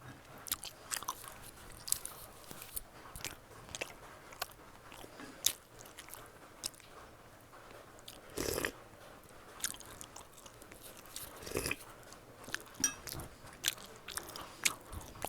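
Close-miked eating sounds of someone chewing steamed beef momos: wet chewing with many small mouth clicks and smacks. Two longer, fuller sounds come about eight and a half and eleven and a half seconds in.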